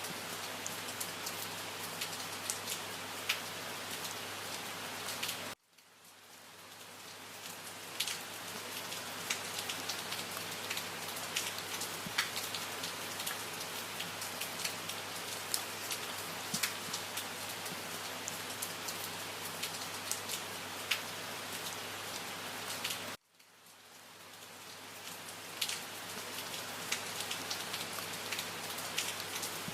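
Steady rain falling, with individual drops ticking sharply over a constant hiss. Twice, about five and a half seconds in and again about 23 seconds in, the rain cuts out abruptly and swells back up over a couple of seconds.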